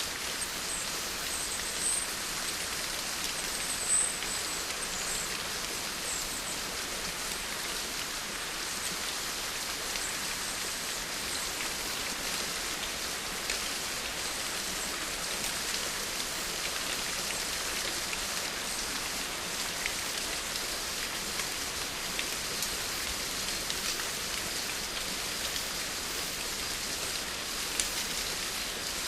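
Steady rain falling, an even hiss with a few brief sharper high sounds in the first several seconds.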